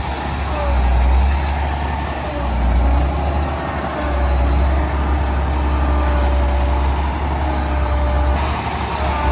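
Diesel engine of heavy earthmoving machinery running under load, a deep rumble that swells and eases every couple of seconds.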